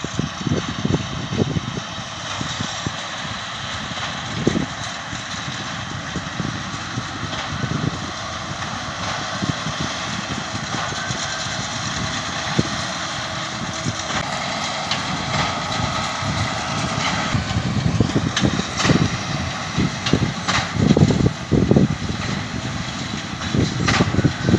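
John Deere tractor and baler working straw: a steady run of engine and machinery noise, with irregular low thumps that come more often toward the end.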